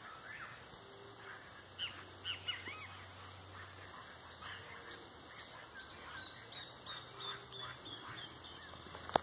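Faint forest birdsong: a few quick chirps about two seconds in, then a long run of evenly spaced high notes.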